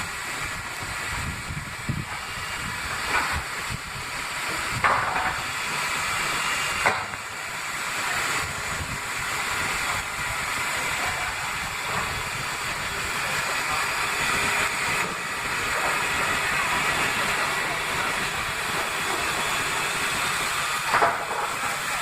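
Steady hiss of steam from Tornado, an LNER Peppercorn A1-class 4-6-2 Pacific steam locomotive, with a few short sharp knocks scattered through it.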